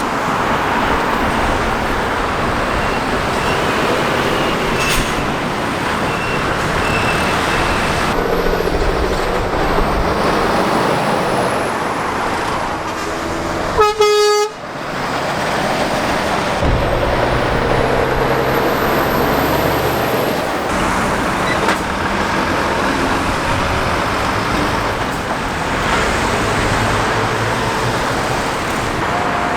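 Lorries and cars passing on a busy main road, with steady engine and tyre noise. About halfway through comes one short, loud single-note horn blast.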